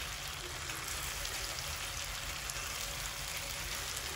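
Chicken pieces cooking in a margarine-based sauce in a nonstick frying pan: a steady sizzle with faint crackles.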